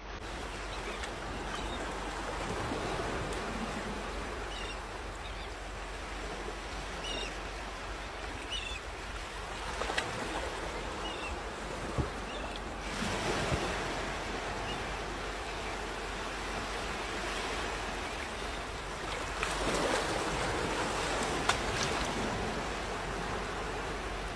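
Sea surf washing onto a beach, a steady rush with louder waves breaking about 13 seconds in and again around 20 seconds.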